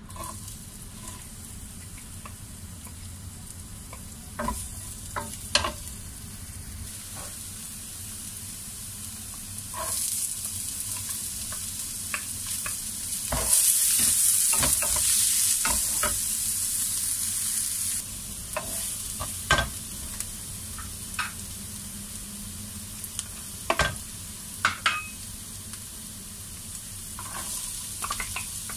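Chopped onions and garlic sizzling in hot oil in a nonstick frying pan, stirred with a wooden spatula that scrapes and knocks against the pan. The sizzle is loudest about halfway through.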